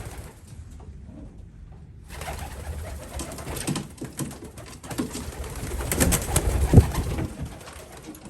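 Racing pigeons cooing in a loft, with rustling and knocking that start about two seconds in and build to a loud thump near the end.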